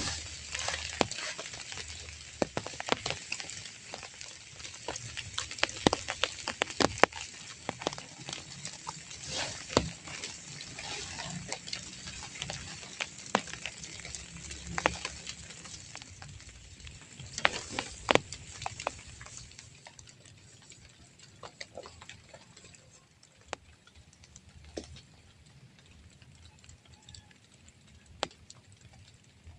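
Raindrops pattering in irregular taps and clicks over a steady hiss of rain. The drops thin out and grow quieter after about twenty seconds.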